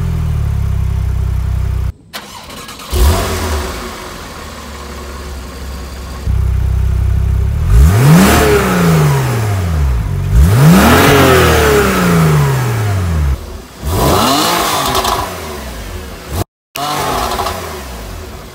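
Porsche 911 Targa 4 (991.2) 3.0-litre twin-turbo flat-six on its stock exhaust, starting up with a flare and settling to a steady idle. It is then revved three times, each rev climbing and falling back in pitch. After a short break near the end, another car's engine is heard running.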